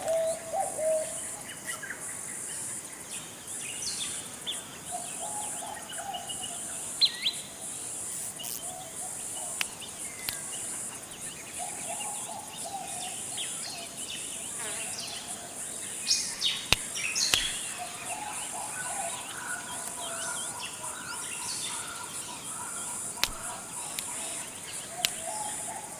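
Tropical forest ambience: a steady high-pitched insect chorus throughout, with scattered bird chirps and a lower bird call that comes back every few seconds.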